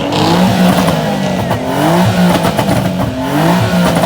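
A car engine being revved hard several times, its pitch climbing and falling back over and over, loud.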